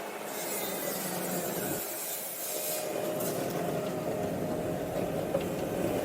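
Kubota SVL95-2 compact track loader working: its diesel engine runs steadily under a rasping, scraping noise that is strongest in the first half.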